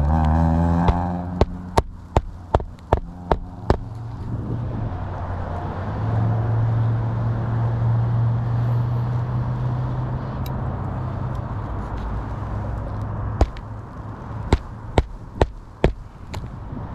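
Roofing hatchet driving roofing nails into an asphalt shingle: a run of about eight sharp hammer strikes, two to three a second, then a second run of five strikes near the end. Between the two runs a steady low motor-vehicle hum fills the gap.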